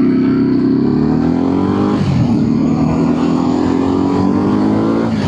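Ducati Multistrada motorcycle engine accelerating through the gears, its pitch rising, dropping at a gear change about two seconds in, then rising again to another change near the end. Wind rushes underneath.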